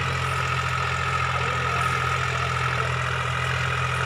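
Deutz-Fahr Agrolux 50 4WD tractor's diesel engine running steadily at low revs, with a constant higher whine over the low engine note.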